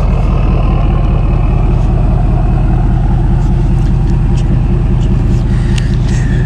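Steady vehicle engine and road noise: a loud, continuous low rumble.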